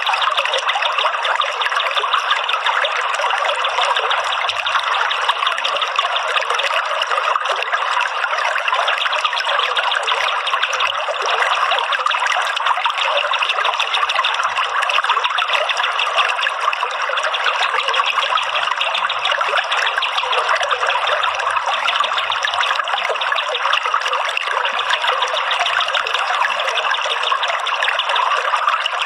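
Steady trickling running water, a dense, even splashing that does not change.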